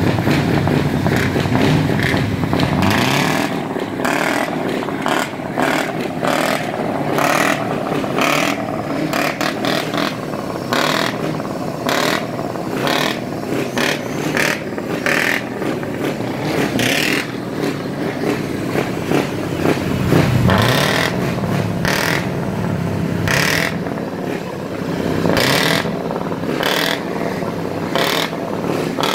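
Scania diesel truck engines revving hard through loud exhausts, with many short sharp bursts of noise and a deep surge about two-thirds of the way through.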